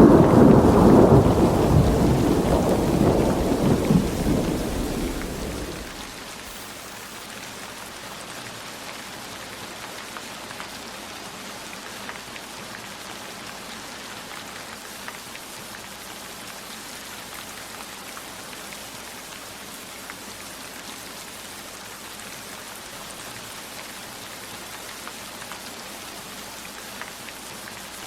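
A roll of thunder that dies away over the first six seconds, leaving steady heavy rain with scattered drop ticks.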